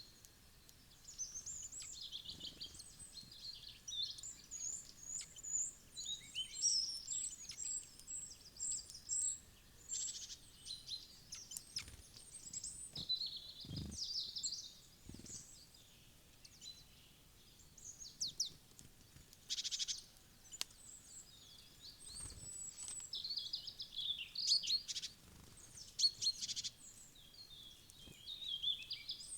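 Small wild birds chirping and calling many times over in quick, high-pitched notes and trills, with a few soft thumps around the middle.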